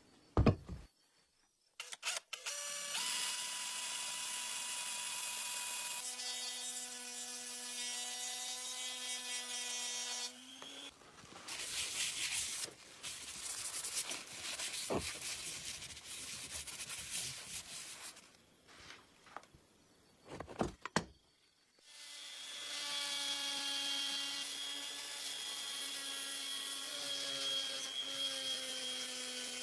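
A small electric motor runs with a steady whine for several seconds, stops, and starts again about 22 seconds in, with knocks and clatter in between.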